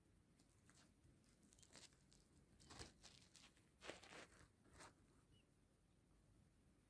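Near silence, broken by a few faint rustles and scuffs between about two and five seconds in, and a single tiny high chirp a little after that.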